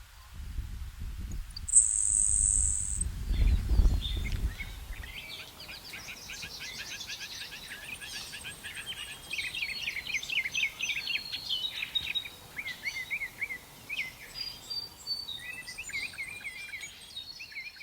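A sparrow singing a run of rapid trills and quick repeated notes. A short, loud, high buzzing note comes about two seconds in, and a low rumble of wind on the microphone fills the first few seconds.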